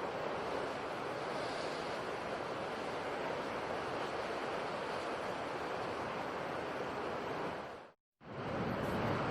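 Steady wash of sea waves and surf, an even rushing noise. About eight seconds in it fades out to a brief moment of silence, then fades back in.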